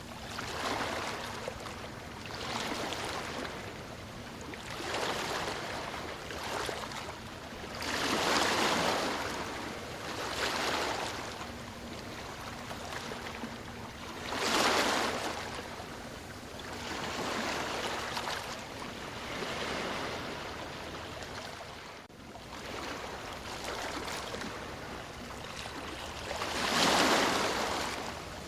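Ocean waves washing in and drawing back, a surge of surf every few seconds. The biggest waves come about a third of the way in, around the middle and near the end.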